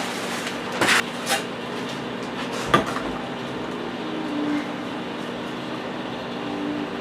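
Brick-and-mortar masonry work with metal hand tools: a few short scrapes and clinks, and one sharp tap about three seconds in. A steady low hum runs underneath.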